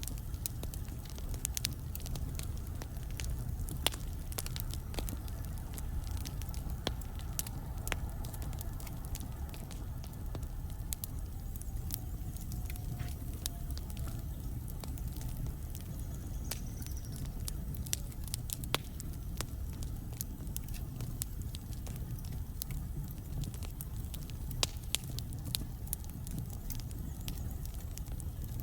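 Wood fire burning in a fireplace: a steady low rumble of flame with frequent sharp crackles and pops from the burning logs, coming thickest at the start and again near the end. A faint hiss rises about halfway through.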